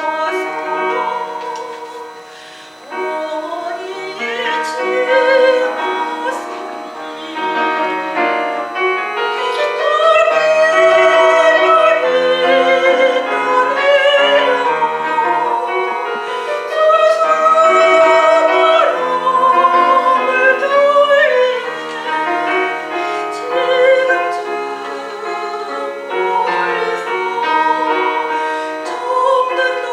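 Soprano singing a Korean art song with piano accompaniment, holding long notes with vibrato. The music dips briefly about two to three seconds in, then swells again.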